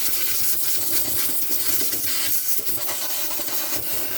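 A steady, loud hiss with light rubbing and scraping.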